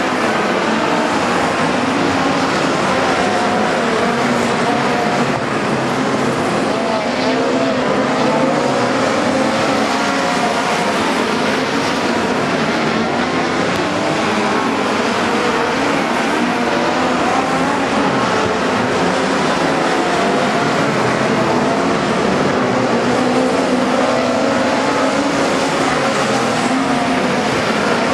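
A field of midget race cars running in a pack, many engines at once, their pitch rising and falling as they accelerate and lift through the laps.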